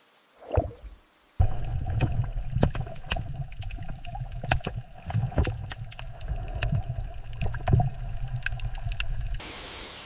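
Water gurgling and sloshing with a low rumble and many small clicks and pops; it starts abruptly about a second and a half in, after a single gurgle, and cuts off suddenly near the end into a softer hiss.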